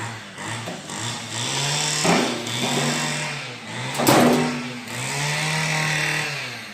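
Handheld electric power tool running in short bursts of changing speed, with two sharp knocks about two and four seconds in.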